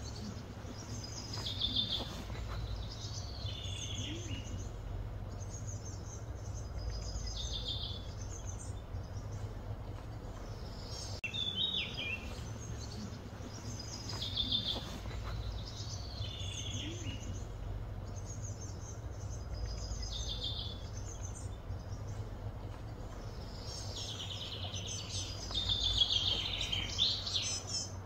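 Songbirds singing: short chirping phrases repeat every few seconds, with a longer, louder run of song near the end, over a steady low rumble.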